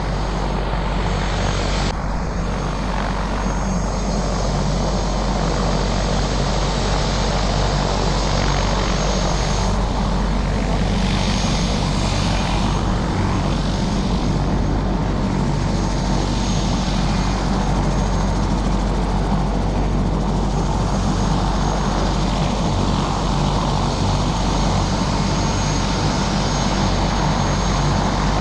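Helicopter running steadily in flight: a constant, loud engine and rotor drone with a low hum underneath.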